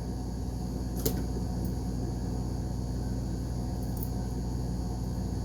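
Steady low background hum with one sharp click about a second in.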